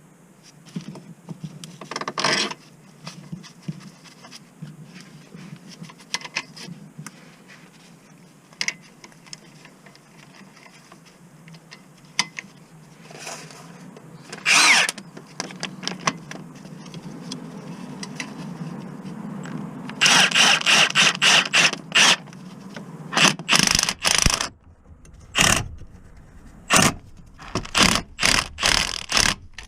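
Mechanic's tools working on a car: scattered clicks and scrapes over a steady low hum, then a quick run of about a dozen loud repeated strokes about two-thirds of the way through, followed by more separate strokes.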